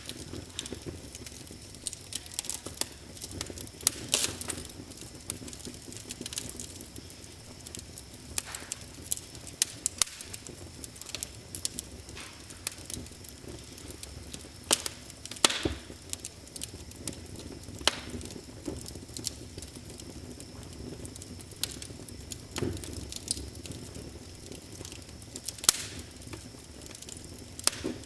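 Wood fire crackling in a fireplace: irregular sharp pops and snaps over a low steady hiss, with a few louder cracks scattered throughout.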